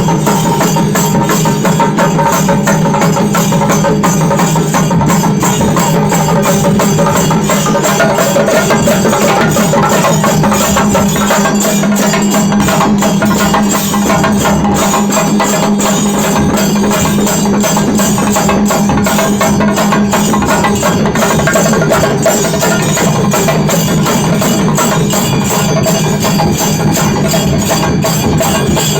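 Traditional Karnataka temple drums, dollu and nagari, beaten together in a fast, unbroken rhythm of dense, loud strokes, with a steady low ringing tone beneath the beats.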